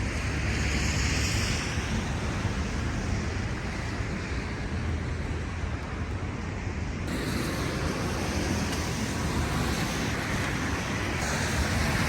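Steady vehicle road noise: a low rumble under an even rushing hiss, changing abruptly in tone about seven and eleven seconds in.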